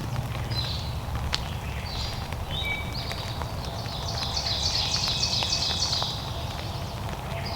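Wild turkey gobbling, several rattling bursts with the longest from about three to six seconds in, over a steady low background rumble.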